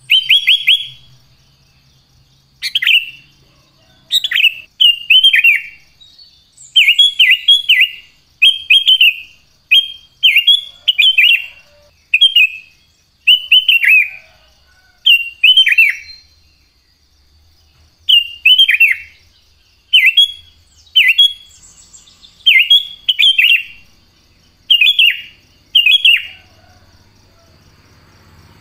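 Sooty-headed bulbul singing loudly: short phrases of a few quick whistled notes that each fall in pitch, repeated every second or two.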